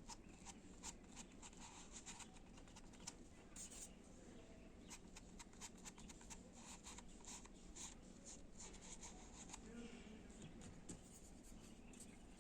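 Faint, quick run of short scratchy dabs and strokes of a paintbrush laying on acrylic paint, irregular in spacing.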